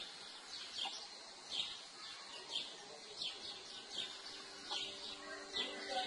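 A bird repeating a short, falling chirp about once a second over faint outdoor background, with steady low tones coming in near the end.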